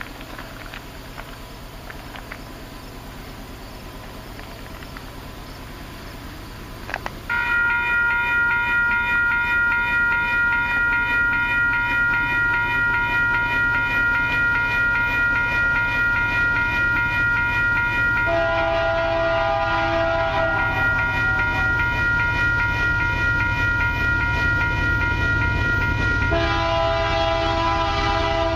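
Faint insect chirping, then about seven seconds in the lead Canadian Pacific diesel locomotive's multi-note air horn starts sounding for the grade crossing. It is held long and loud, and its chord shifts twice along the way.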